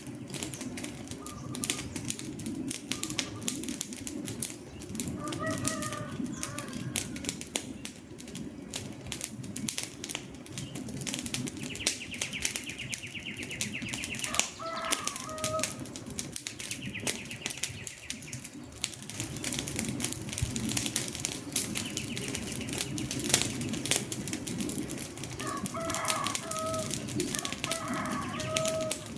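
Wood fire crackling with frequent sharp pops over a low steady rush of flame. A bird calls in short phrases of a few notes several times, and a higher rippling trill sounds twice.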